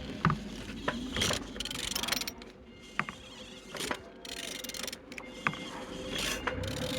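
Scattered light clicks and knocks with rustling between them, over a faint steady hum.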